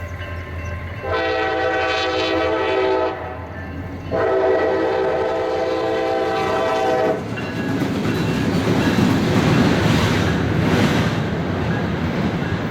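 A CSX diesel freight locomotive's air horn sounds two long blasts, a chord of several notes, each about two to three seconds. From about halfway through, the locomotive and train roll past with a loud rumble and wheel clatter on the rails.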